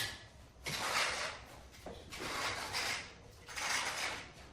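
Trowel scraping through wet tile mortar in three strokes, each about half a second to a second long and about a second and a half apart.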